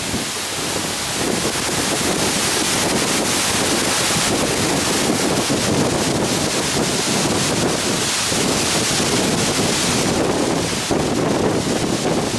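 Wind buffeting the microphone over a steady rush of water and spray.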